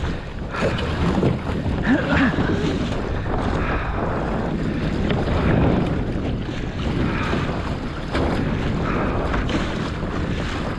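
Wind buffeting the microphone over water rushing along the hull of a small sailing dinghy under way.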